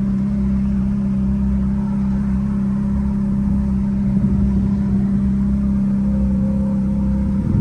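Ferrari F430's V8 engine idling steadily, heard from inside the cabin.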